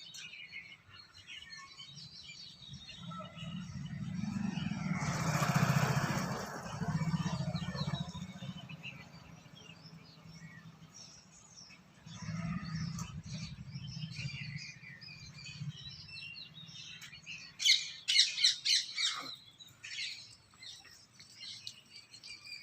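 Small birds chirping and tweeting, with a run of quick, loud calls about eighteen seconds in. A broad rushing noise swells and fades between about four and eight seconds in.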